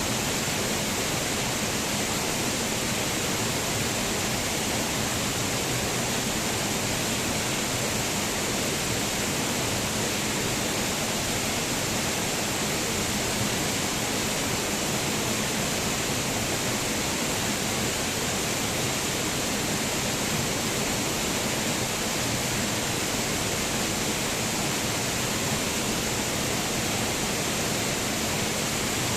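Waterfall: water falling and splashing in a steady, even rush, with no change.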